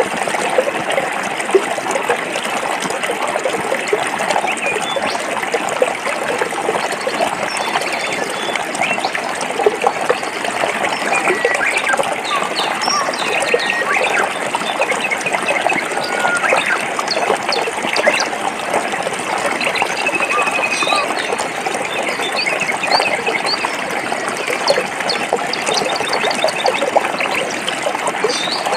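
A forest stream flowing steadily over rocks, with small birds chirping briefly now and then above it, more often in the second half.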